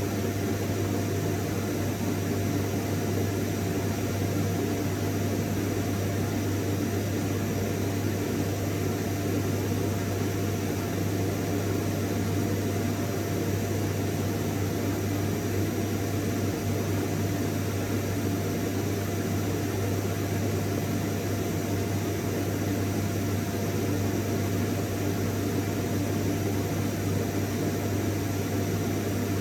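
Vacuum cleaner motor running steadily, a constant whooshing air noise with a low hum and a faint steady whine.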